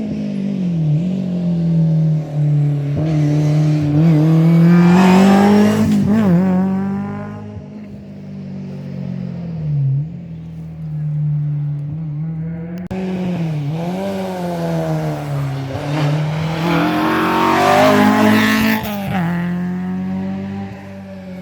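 Historic rally car engines revving hard on a special stage, the pitch climbing and dropping again and again through gear changes and lifts, loudest about five seconds in. After an abrupt cut about 13 seconds in, a second car does the same, loudest near 18 seconds.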